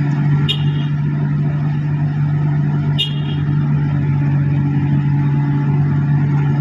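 A heavy engine running steadily with a strong, even low hum. Two short, high ringing chirps come about half a second in and again about three seconds in.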